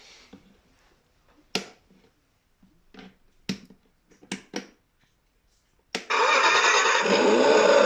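A few scattered clicks and knocks, then about six seconds in a loud, steady electronic sound with many pitched tones cuts in suddenly, played through a small speaker.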